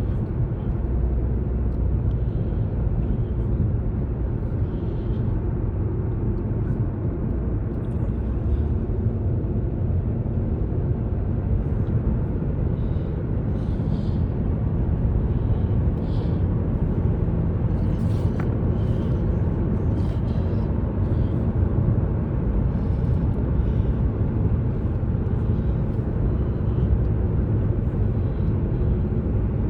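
Steady road noise of a car driving at highway speed, a low even rumble of tyres and engine heard from inside the cabin.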